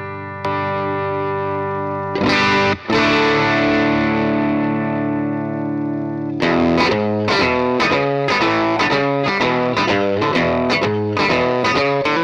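Distorted electric guitar through a DemonFX Gravity pedal. Chords are struck and left ringing, restruck twice, and then about six seconds in it breaks into a quick riff of single picked notes.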